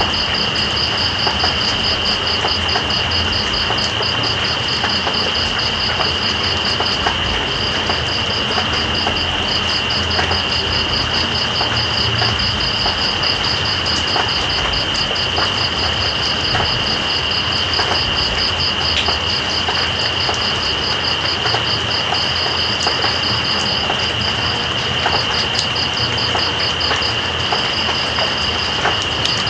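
Steady rain with night insects trilling over it: one in a fast pulsing trill that pauses briefly a few times, another in an unbroken high whine.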